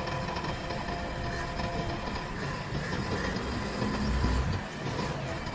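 Heavy diesel engine running with a steady low rumble that swells briefly about four seconds in.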